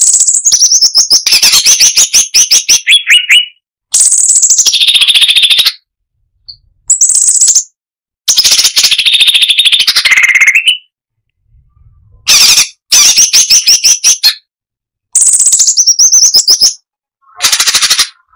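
Striated bulbul (cucak cungkok) singing: a string of loud, rapid chattering phrases, each a second or two long, broken by short pauses.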